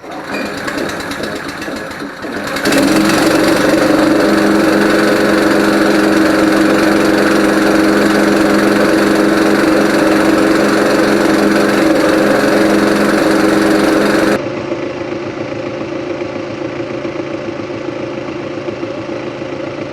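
Small gas engine, started with the choke on after years unused, belt-driving an air compressor pump. It comes to a loud steady run about two and a half seconds in, then drops abruptly to a quieter steady run about fourteen seconds in.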